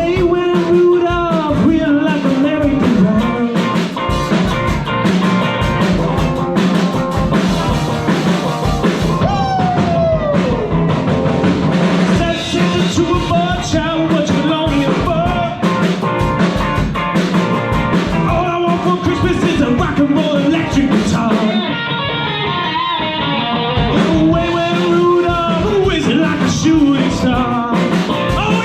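A live rock band playing a song with a singer's voice over the instruments.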